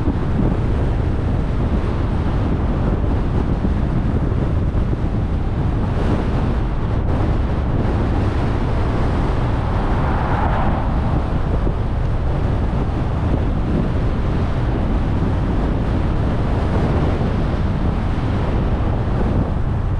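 Steady road and wind noise from a car being driven, with wind buffeting the microphone and a brief swell about halfway through.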